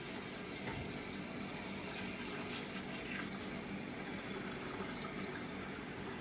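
Water running steadily as an espresso portafilter is rinsed out.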